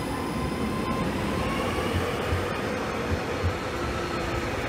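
Northern multiple-unit passenger train running along the platform: a steady rumble with a faint whine that slowly rises in pitch.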